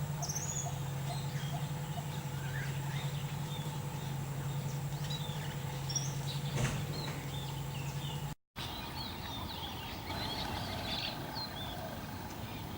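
Small birds chirping and twittering, many short overlapping calls, over a steady low hum. The sound drops out for a moment about eight seconds in, and after that the hum is gone while the chirping goes on.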